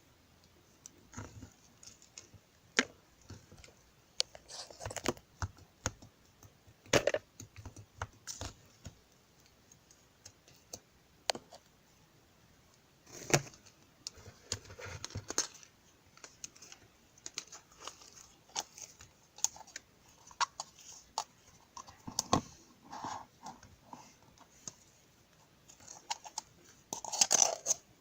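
Irregular clicks, taps and short rustles, like small objects being handled close to the microphone in a small room, with a cluster of louder rustling near the end.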